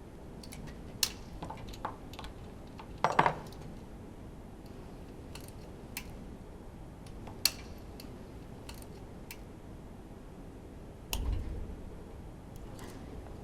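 Scattered light clicks and metallic clinks of hand tools and engine parts being handled during an engine teardown, with a small cluster of clinks about three seconds in and a duller knock near the end.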